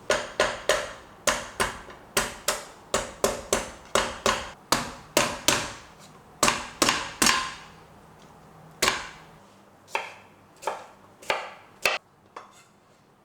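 A knife chopping on a cutting board: a quick run of sharp knocks for about seven seconds, then a handful of slower, spaced strokes before it stops near the end.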